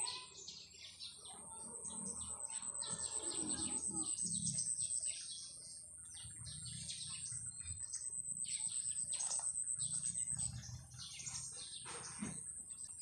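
Small birds chirping in quick, repeated short calls, over a high, fast-pulsing buzz that comes and goes.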